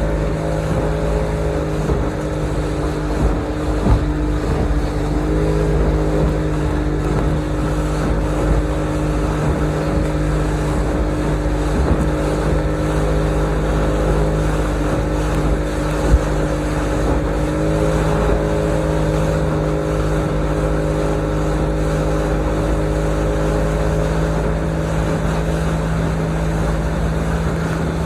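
Motorboat engine running at a steady cruising speed, its hum shifting slightly in pitch twice, over a low rumble.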